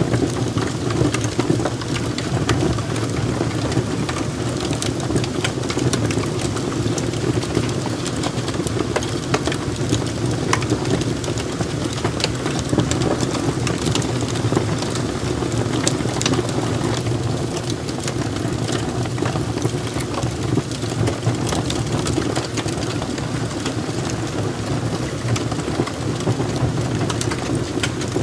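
Wood fire burning in a fireplace: a steady low rumble with frequent small, sharp crackles and pops from the logs.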